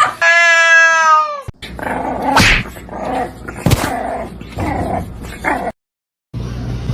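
A pet animal's vocal calls: one long pitched call falling slightly in pitch, then a run of shorter, rougher calls, cut off abruptly near the end.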